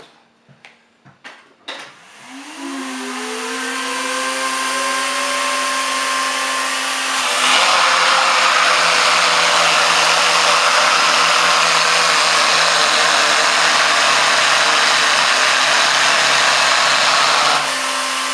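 Vacuum cleaner switched on after a few clicks: its motor spins up with a rising whine, then runs steadily with air rushing through the hose, sucking air through a homemade cardboard turbine box. About seven seconds in the rush of air becomes suddenly louder, and it dips briefly near the end.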